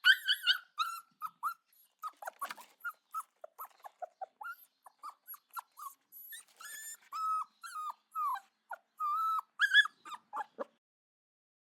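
Bird calls: an irregular run of short whistled and chirping notes, many sliding up or down in pitch, mixed with sharp clicks, stopping about a second before the end.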